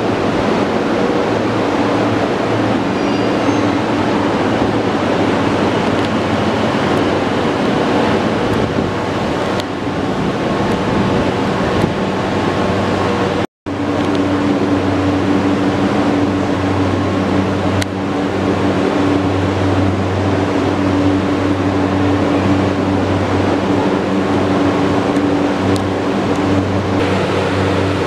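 Electric commuter train standing at a station platform: a steady wash of noise with a low hum. The sound cuts out for a moment about halfway through and returns with the hum stronger.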